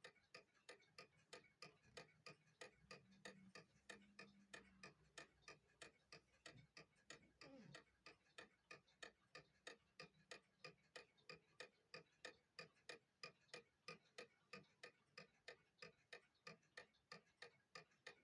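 HAU mechanical clock ticking with an even tick-tock, about two to three ticks a second, its movement freshly repaired and running.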